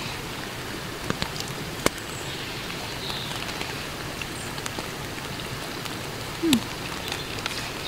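Steady rain on a tent's fabric, heard from inside the tent, with a few short sharp ticks and one brief falling tone about six and a half seconds in.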